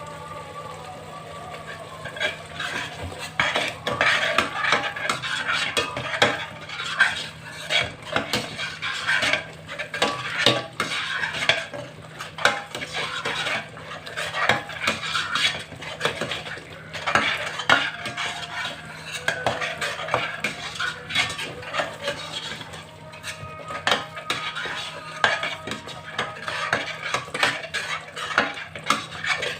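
Metal utensil stirring and scraping against a cooking pot, with dense, irregular clinks and scrapes starting about two seconds in.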